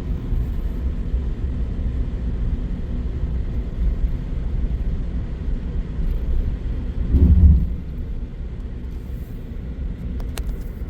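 Vehicle driving at about 30 mph, a steady low rumble of engine and road, with a brief louder swell of rumble about seven seconds in.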